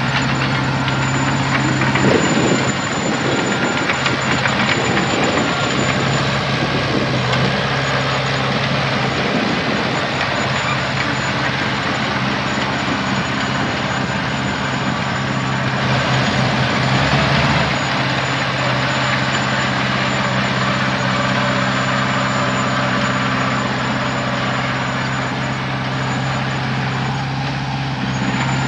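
Heavy diesel engine of earthmoving machinery running steadily, briefly louder about two seconds in and again just past halfway.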